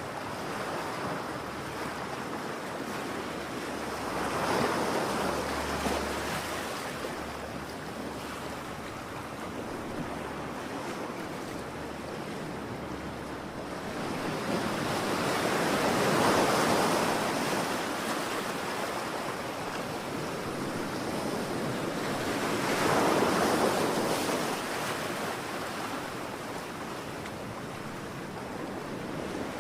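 Ocean waves breaking and washing on a shore: a steady rush of surf that swells three times, a few seconds in, about halfway through and again near two-thirds of the way.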